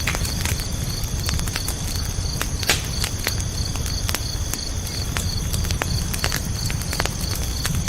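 Wood fire crackling with irregular sharp pops over a low rumble, the loudest pop a little under three seconds in. Crickets chirp in a steady high pulsing trill throughout.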